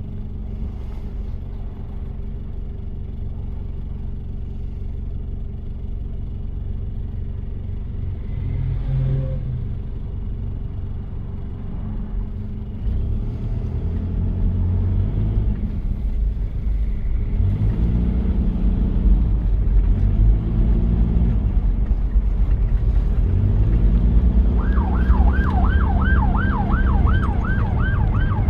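1993 Toyota Prado diesel engine running steadily, then from about twelve seconds in pulling harder, its note rising and dropping again several times as the vehicle accelerates through the gears. Near the end a fast warbling emergency siren starts up, about three to four swoops a second.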